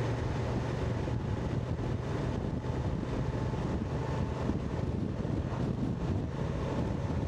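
Motorcycle engine running steadily at low road speed, with wind rushing over the microphone.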